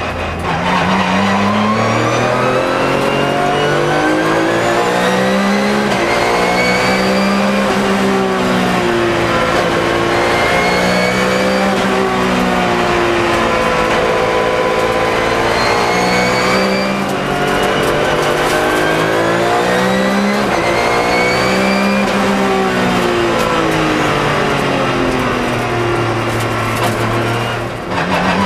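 A Porsche 997 GT3 Cup's 3.6-litre flat-six engine, heard from inside the cabin. The engine note climbs and falls several times as the car accelerates and slows, with a brief drop near the end.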